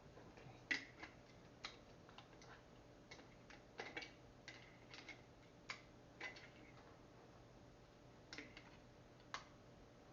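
Faint, irregular small metallic clicks and taps of a vise grip working the flange nut and disc of a small angle grinder during a disc change.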